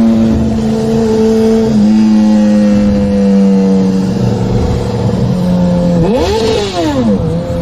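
Motorcycle engine running at steady revs, its note slowly sinking, then a quick rev up and back down about six seconds in before it settles to a lower steady note.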